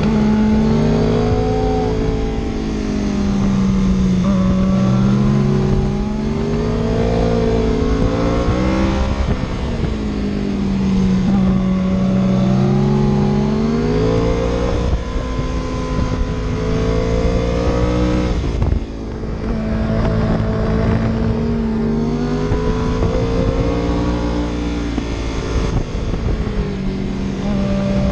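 Car engine heard on board, driven hard: its note climbs and falls again and again as it accelerates, shifts and slows for bends, with a short dip about two-thirds of the way through. Steady wind and road rumble lie underneath.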